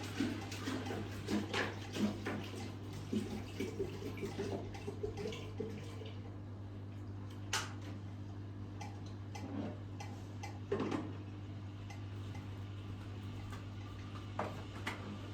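Water pouring into an electric tea maker for about six seconds, then stopping, followed by a few scattered clicks and knocks. A steady low hum runs underneath.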